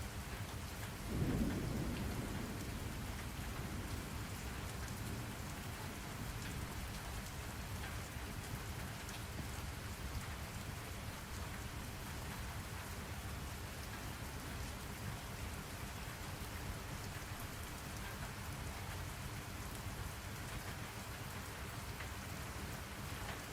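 Steady rain, with a low rumble of thunder starting about a second in and fading away over a few seconds.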